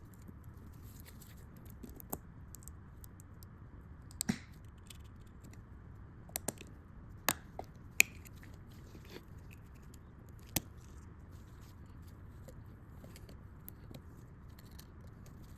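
Small metal clicks and light scrapes of a pick prying at the VTEC solenoid's oil screen, scattered over a faint steady hiss, with the sharpest tick about eight seconds in.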